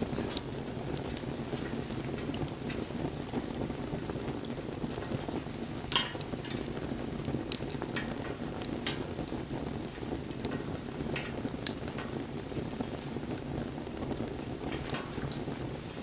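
Wood bonfire burning: a steady low rush of flames with scattered sharp crackles and pops, the loudest about six seconds in.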